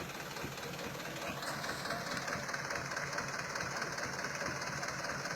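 A truck's diesel engine running steadily at low revs. A higher hiss joins about a second and a half in.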